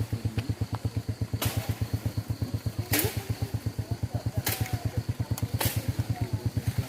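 Motorcycle engine idling with an even, rapid put-put of about seven beats a second, broken by a few sharp clicks.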